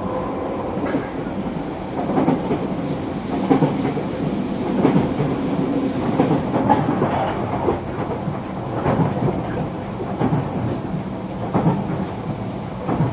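Running sound inside a JR Kyushu 305 series electric train's motor car on the move: a steady rumble of the car, with the wheels clacking over rail joints every second or two.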